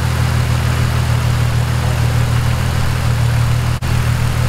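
Holden Commodore's supercharged L67 3.8-litre V6 idling steadily, run so that trapped air in the cooling system works its way up to the bleed point. The sound breaks off for an instant just under four seconds in.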